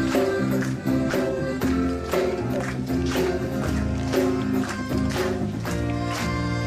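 Live reggae band playing an instrumental passage between sung lines: percussion hits about twice a second over held bass and chord notes.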